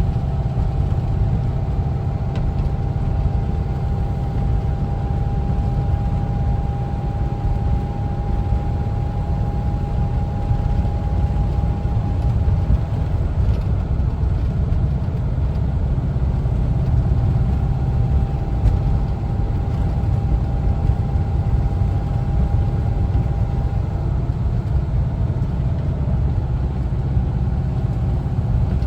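1974 Volkswagen Westfalia camper's air-cooled Type 4 flat-four engine running, a steady low rumble, with a faint thin whine over it for about the first dozen seconds and again for several seconds in the second half.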